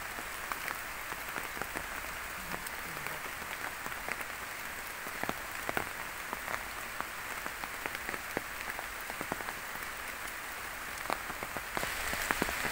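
Steady rain falling on leaves and stone, with single close drops ticking sharply here and there; it grows heavier near the end.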